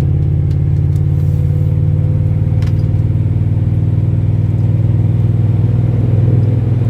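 1997 Chevrolet Silverado's stock 5.7-litre V8 exhaust through a Dynamax bullet muffler, heard from inside the cab: a loud, steady drone as the engine holds a constant speed.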